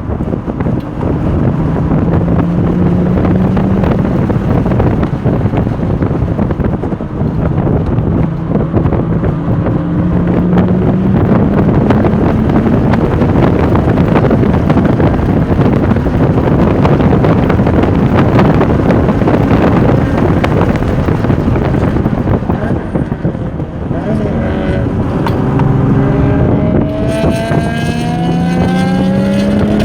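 Porsche 996 Turbo's twin-turbocharged flat-six under hard acceleration at track speed, its note climbing through the revs several times, dropping about 24 seconds in, then climbing again. Heavy wind noise buffets the microphone throughout.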